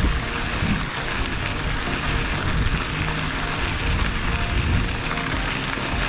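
Steady rushing wind noise on the microphone with the rumble of mountain-bike tyres rolling along a gravel rail trail.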